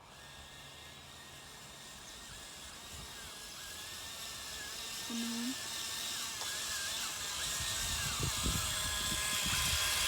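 Electric motor and gearbox of a toy-grade RC military truck whining as it drives, the pitch dipping and rising with the throttle and the sound growing steadily louder.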